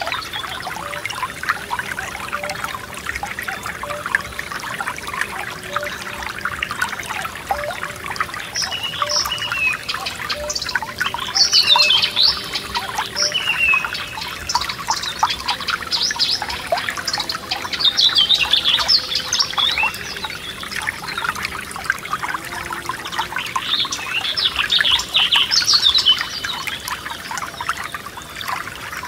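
Forest stream trickling and splashing over stones, with songbirds singing over it in repeated phrases of quick, falling high notes that come several times.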